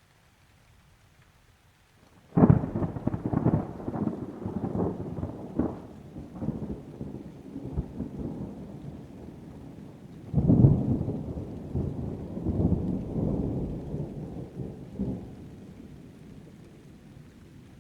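Thunder: a sudden crack about two seconds in that rolls into a long rumble, swells again about ten seconds in, and dies away, with rain underneath.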